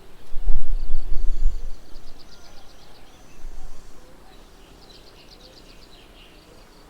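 A low rumble, loudest from about half a second to two seconds in, over outdoor background with birds giving high, rapidly repeated chirping trills, twice.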